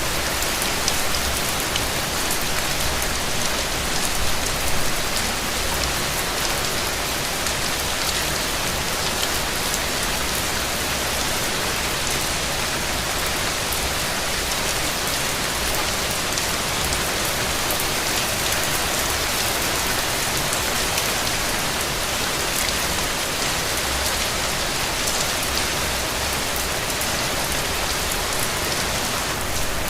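Steady rain falling on a road: an even hiss of many drops, with a faint low rumble underneath now and then.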